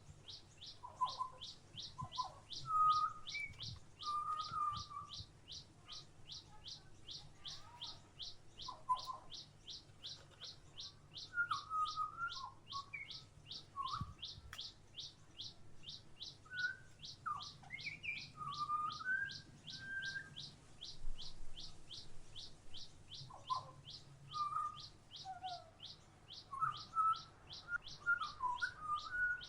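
Small songbirds calling around a backyard feeder: scattered short chirps and twitters, over a high, evenly repeated note at about two to three a second that runs throughout.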